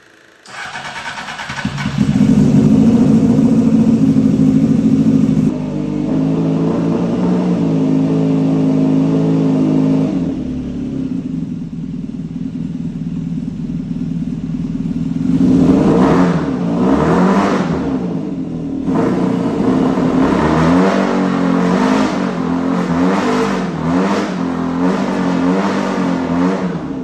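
600cc motorcycle engine of a home-built go-kart starting up about half a second in and running, then revved up and down repeatedly in the second half. The engine is not running right ('not happy').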